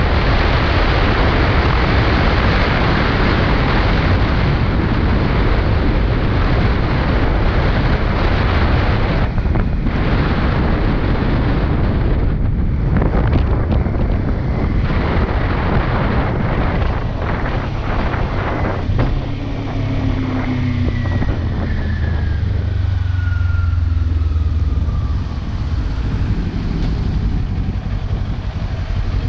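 Kawasaki Ninja 400 parallel-twin motorcycle riding at speed, heavy wind rush on the microphone covering the engine. Past halfway the bike slows: the wind drops, the engine's pitch falls and a low steady engine note comes forward as it winds down toward idle.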